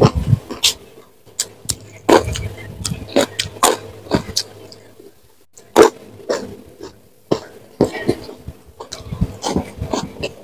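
Close-miked chewing and mouth sounds of a person eating with her hands: irregular sharp crunching clicks and wet smacks between bites of rice, fried fish and raw vegetables.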